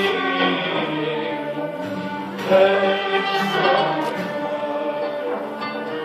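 Turkish classical (art) music in makam Hicaz and usul Düyek, played by an instrumental ensemble with held, ornamented melodic lines.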